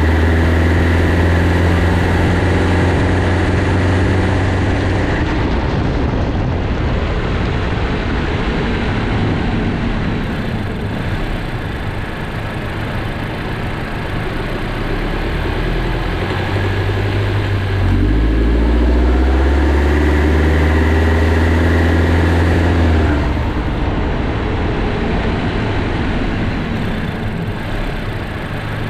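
Honda Jade's 1.5-litre turbocharged four-cylinder, heard from inside the engine bay, pulling hard under acceleration twice: once in the first five seconds and again from about 18 to 23 seconds in. Over the rising engine note comes a hissing, swishing 'shuru-shuru shaa' that appears under strong acceleration. The owner suspects a slipping accessory belt or a pulley bearing.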